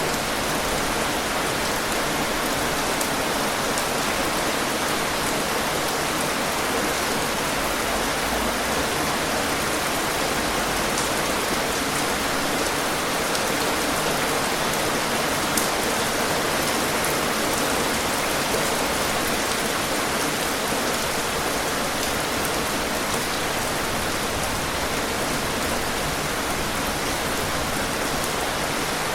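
Steady rain falling on a surface, an even hiss of drops with no let-up and a few sharper drop ticks here and there.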